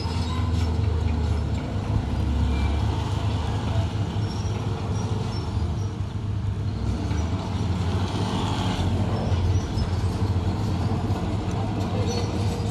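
Heavy diesel earthmoving machinery running with a steady low engine drone, with scattered metallic clanks and a few short high squeaks.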